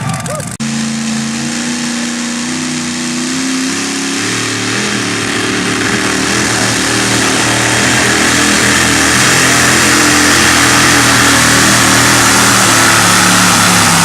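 Super modified two-wheel-drive pulling truck's engine held at high revs under full load during a pull, a steady, loud note that grows louder over the run.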